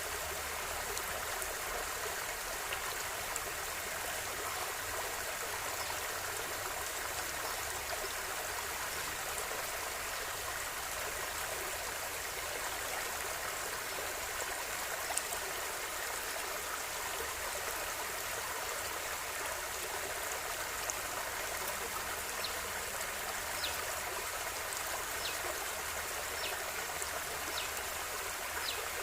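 River water flowing steadily over stones, an even rushing with small splashes and trickles.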